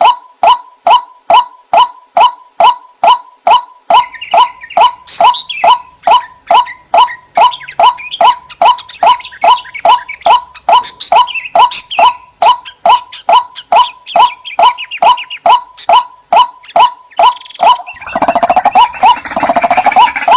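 White-breasted waterhen calling: a loud, monotonous run of repeated notes, about two or three a second, each dipping slightly in pitch. Further higher, harsher calls overlap it from about four seconds in, and near the end a dense, rough, grunting chorus swells over it.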